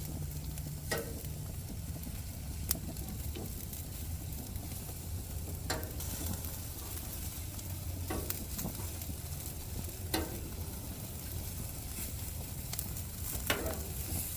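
Jerk-marinated chicken wings sizzling on a gas grill: a steady hiss with scattered sharp pops every couple of seconds, over a steady low rumble.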